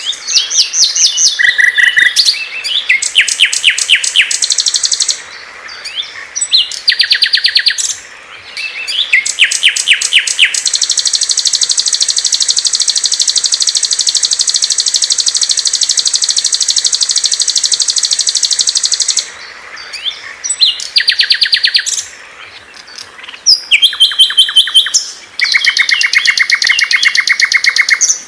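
Small songbird song: loud, fast, high-pitched trills and chattering phrases broken by short pauses, with one unbroken high trill lasting about eight seconds in the middle.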